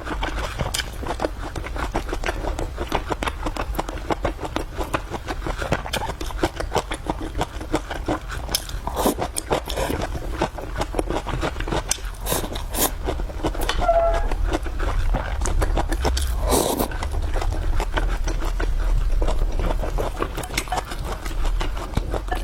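Close-miked chewing and eating sounds: a steady run of many short clicks and smacks from mouth and food.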